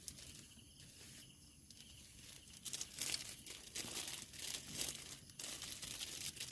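Plastic packaging crinkling and rustling as it is handled, in irregular bursts that grow louder from about three seconds in.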